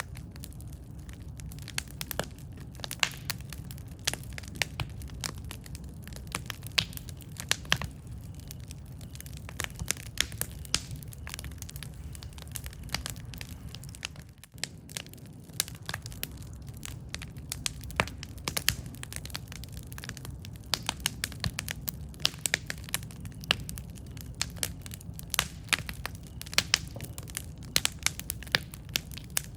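Wood campfire crackling, with frequent sharp pops and snaps over a steady low rumble of the burning fire.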